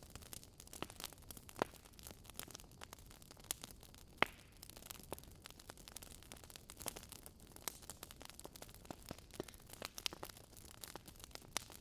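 Wood fire crackling in a fire pit: irregular snaps and pops, with one louder pop about four seconds in.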